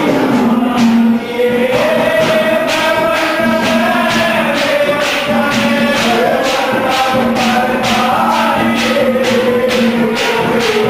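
Haryanvi ragni folk music: a sung melody over a held drone note, with a steady beat of sharp percussion strokes.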